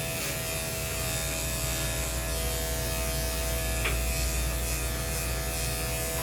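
Electric dog grooming clippers running steadily, a constant motor hum, with one brief click about four seconds in.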